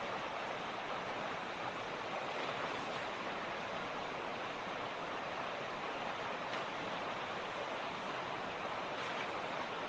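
Mountain creek running, a steady rush of water flowing over stones.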